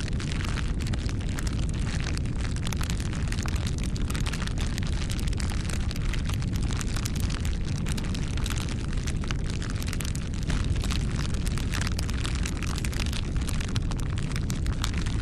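Campfire burning: a steady low rumble of flames with dense, irregular crackling of the wood throughout.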